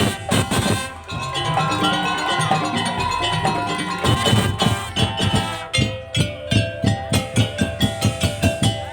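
Madurese daul (tongtong) ensemble playing: melodic tuned percussion and a gliding lead line over drums. About halfway in the drums break into an even run of strokes, about four a second.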